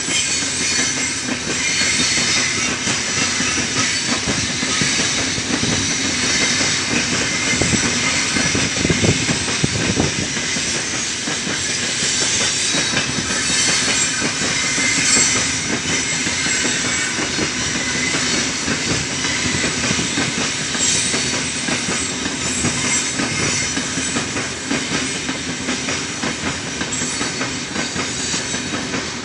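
Open freight wagons of a heavy, 6,540-tonne freight train rolling past, with a steady clatter of steel wheels on the rails.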